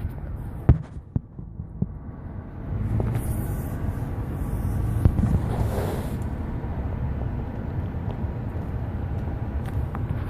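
A car driving through deep floodwater: a low engine and road rumble, with a rush of splashing water spray swelling about three seconds in and easing off a few seconds later.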